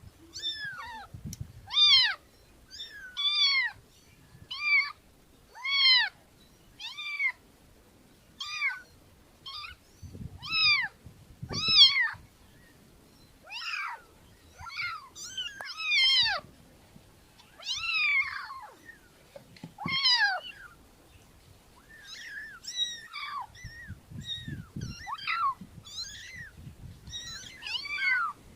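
A cat meowing over and over: a long series of short, high-pitched meows, each falling in pitch, coming about once a second with a few brief pauses.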